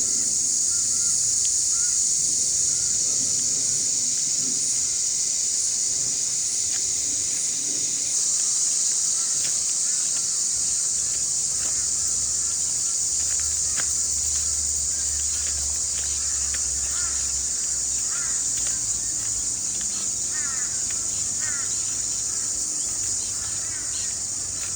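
Chorus of many cicadas singing together: a loud, continuous high-pitched drone that holds steady throughout. Faint bird calls come through underneath, more of them in the second half.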